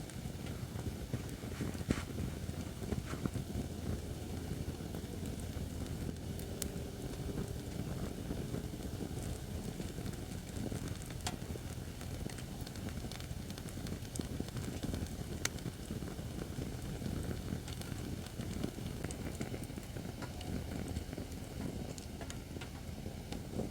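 Acacia firewood burning in a fire-pit stand: a steady low rumble with scattered sharp crackles and pops of the burning wood.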